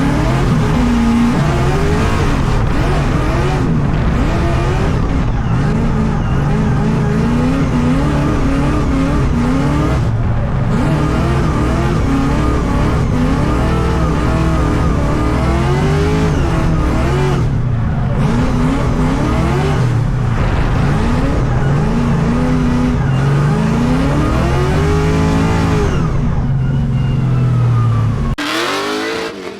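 LS V8 engine of a BMW E82 drift car at full throttle, its pitch climbing and falling again and again as the car drifts. The sound drops off suddenly near the end.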